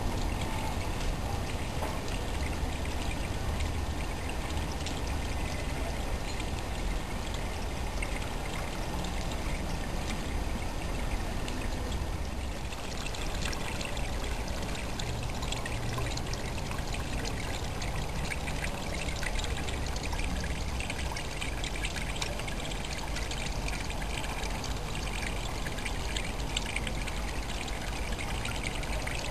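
Rainwater pouring and trickling down a rain chain in a steady stream.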